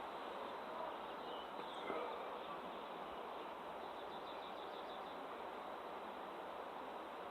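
Small songbirds chirping faintly over a steady background hiss, with a quick trill of short high notes about four seconds in.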